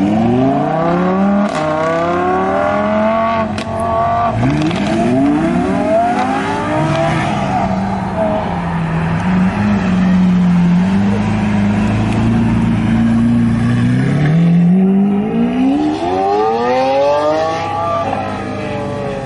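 A high-performance car engine and exhaust accelerating hard. The pitch climbs, drops and climbs again three times, as if shifting up through gears, with two short sharp cracks in the first few seconds. It then runs steadier for several seconds before a last long climb near the end.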